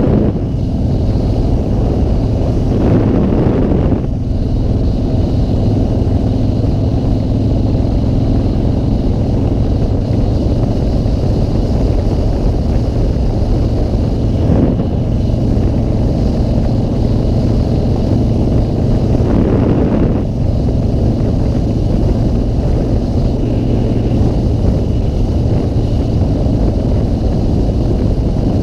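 Motorcycle engine running steadily while riding, with wind noise over the microphone; the wind noise surges briefly a few seconds in and again about two-thirds of the way through.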